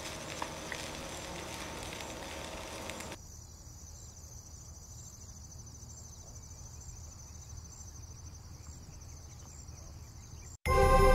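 Fried rice sizzling in a pan, with a couple of light clicks as chopsticks stir it. About three seconds in the sizzle cuts off and is replaced by a high, fast-pulsing trill like insects chirring.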